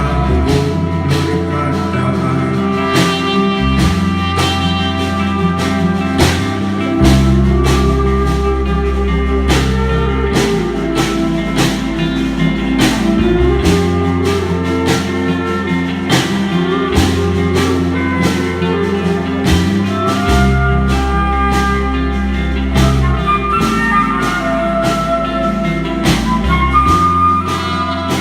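Live band playing an instrumental passage, with a steady beat under a changing bass line and melodic lines.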